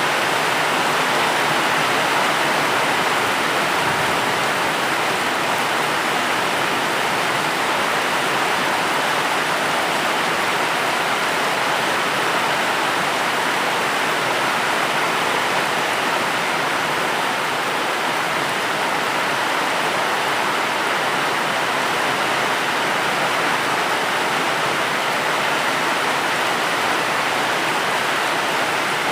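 Steady rain falling, an even, unbroken hiss with no separate drop impacts or thunder.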